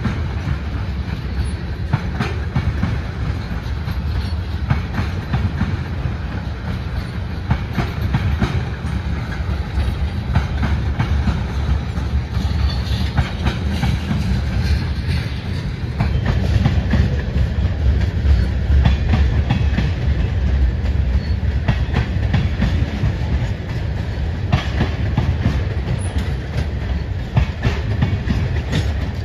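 Tank cars of a long freight train rolling past: a steady low rumble of wheels on rail with frequent clicks from the wheels, getting a little louder about halfway through.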